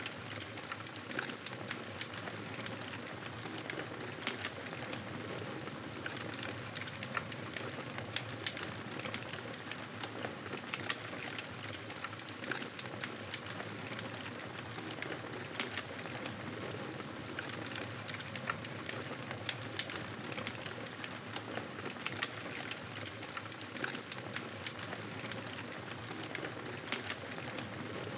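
Campfire crackling: burning wood giving off many small, sharp, irregular pops and snaps over a steady hiss.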